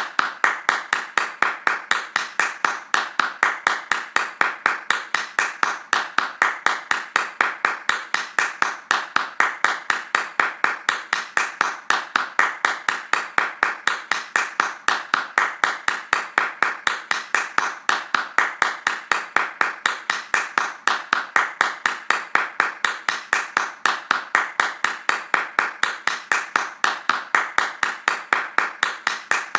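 Hand claps in a fast, even rhythm, several a second, keeping the same pace and loudness throughout.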